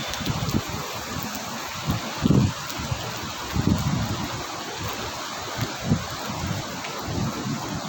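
Steady, fairly heavy rain falling, with irregular low thumps, the loudest about two seconds in.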